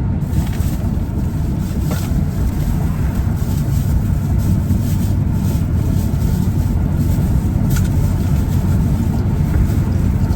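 Steady low rumble of a vehicle driving on the road, heard from inside the cab.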